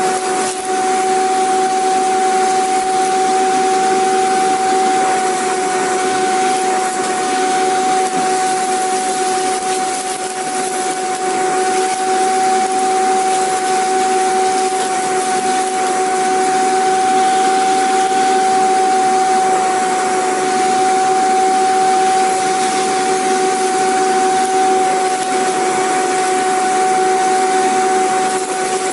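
Vacuum cleaner running steadily: a constant rushing of air with a steady whine held on one pitch.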